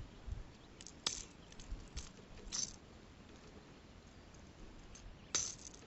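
Four short, sharp clicks and rattles of handling while a hooked largemouth bass is being unhooked with pliers.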